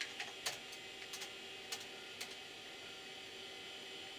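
Keystrokes on a computer keyboard, about eight sharp clicks in the first two and a half seconds, then a steady hum from the running computer.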